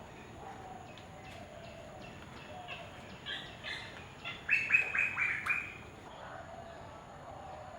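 A bird calling: a couple of softer calls, then a quick run of about five loud calls in the middle, over faint background chirping.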